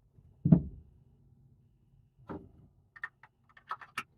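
Objects being handled and set down: a heavy thump about half a second in, a lighter knock a couple of seconds later, then a quick run of small clicks and rattles.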